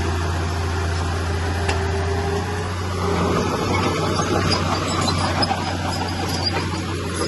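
Heavy earthmoving machine's diesel engine running with a steady low drone. About three seconds in the sound grows louder and rougher, with added clatter, as if the machine is working under load.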